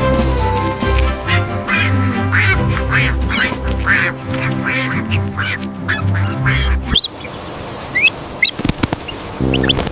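A duck quacking again and again over background music with a steady beat. The music stops about seven seconds in, and a few short rising bird chirps follow before it starts again.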